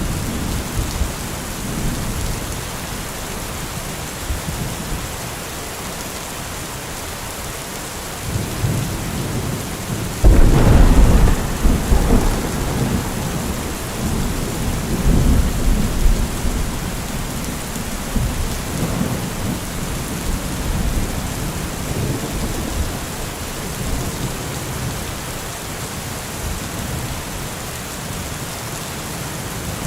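Steady rain falling, with a thunderstorm: a low rumble builds about eight seconds in, breaks into a loud thunderclap a couple of seconds later, then rolls on and fades over the next ten seconds.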